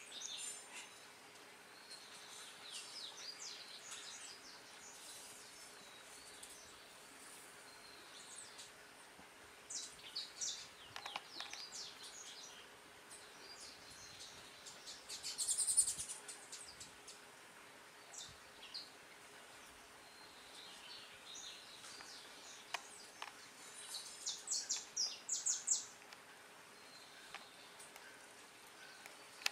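Birds chirping and trilling in scattered bursts over a faint background, loudest about halfway through and again near the end.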